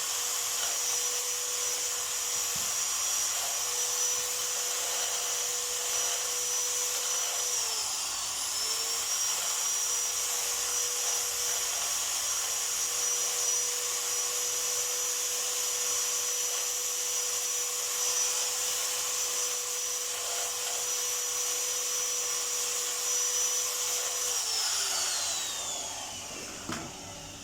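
A small high-speed electric motor running at a steady high whine, its pitch dipping briefly and coming back up about eight seconds in, then falling as it spins down near the end, followed by a short knock.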